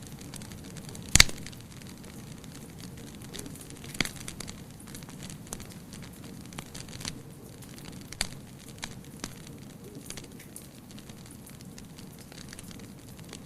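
Wood fire burning with a steady low hiss and scattered crackles, with a loud pop about a second in and another near four seconds.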